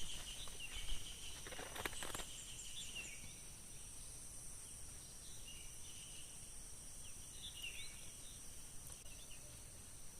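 Forest ambience: a steady, high-pitched insect drone with scattered short bird chirps, and a few sharp knocks or clicks in the first two seconds.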